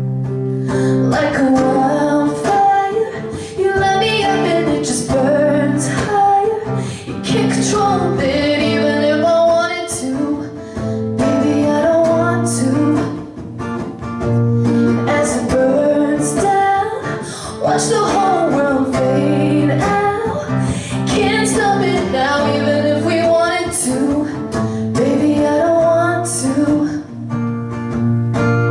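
Live pop song: a woman singing over strummed guitar. The voice carries an unworded melody line with no lyrics.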